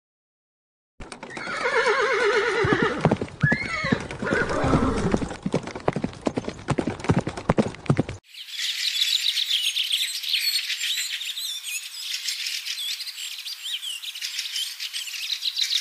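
A horse neighing over clip-clopping hooves. About eight seconds in, this cuts off and gives way to a dense chorus of short high-pitched squeals from wild boar piglets.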